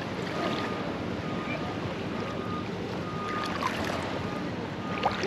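Calm sea water lapping and sloshing, with wind buffeting the microphone.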